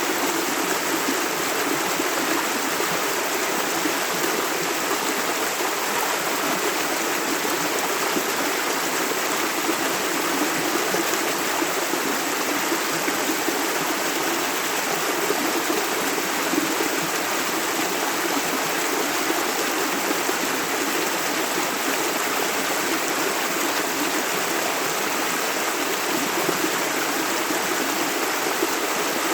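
A river running over rocks: steady rushing and burbling of flowing water.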